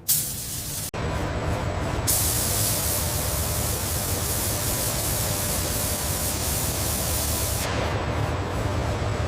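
Steady hiss of paint spray guns applying coats to an airliner. The hiss breaks off sharply about a second in and resumes at once.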